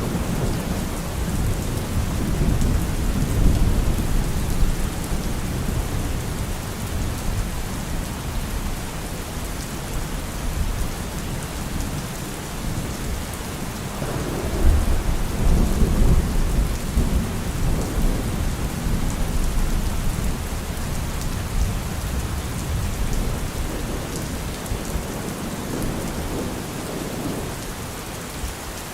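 Steady rain falling with rolling thunder. A low rumble fades over the first few seconds, and another swells about halfway through, then dies away toward the end.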